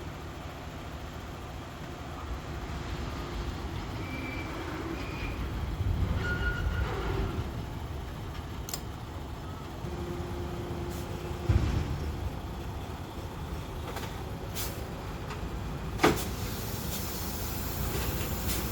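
Trailer tipper and truck machinery running steadily while a wood-chip trailer is raised to dump, with a brief hum and two sharp metallic clanks, one past the middle and one near the end.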